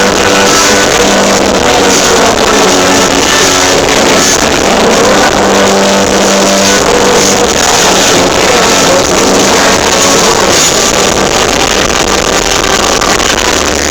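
Rock band playing live, with electric guitars, bass and drums, picked up loud and close to overload by a phone's microphone in the audience.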